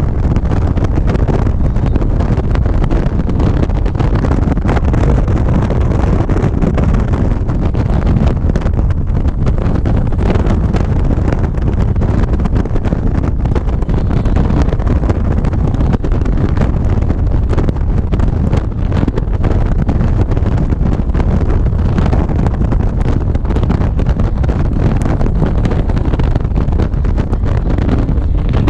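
Steady wind noise on the microphone of a moving motorcycle, with the bike's engine and road noise underneath.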